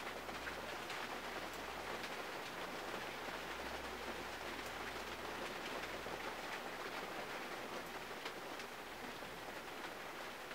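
Rain falling on a 1951 Mercury, heard from inside the cabin: a steady hiss of rain with scattered ticks of single drops.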